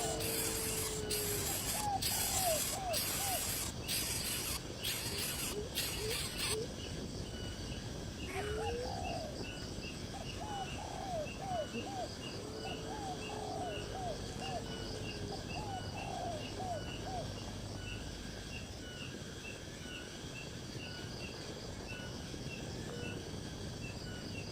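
Scratchy rustling for about the first six seconds, then birds calling: runs of four or five short falling chirps, a few low whistled notes, and a faint high call repeated evenly throughout.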